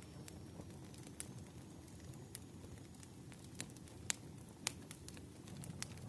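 Wood fire crackling: irregular sharp pops over a low, steady rumble of burning logs.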